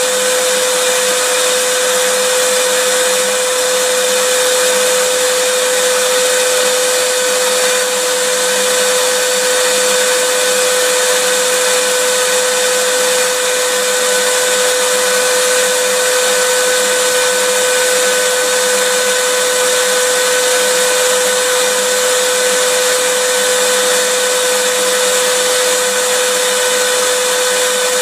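Vacuum cleaner running steadily: an even rush of air with a constant motor whine that never changes in pitch or level.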